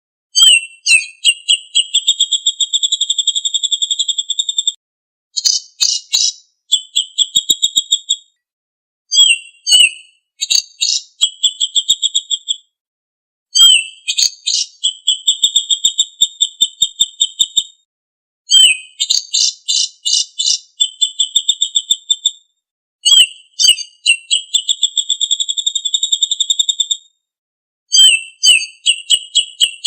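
Songbird song from a birdsong training (masteran) recording: repeated phrases of two to four seconds, each opening with a sharp downward note and running into a fast, even, high-pitched trill, with short pauses between phrases.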